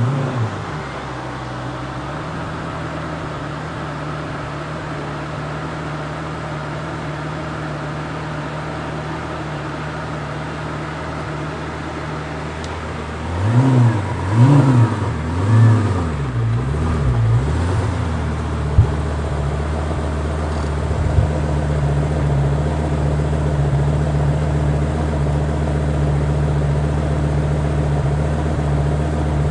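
Performance car engine idling steadily, then revved in about four quick throttle blips about halfway through before settling back to a steady, slightly higher idle.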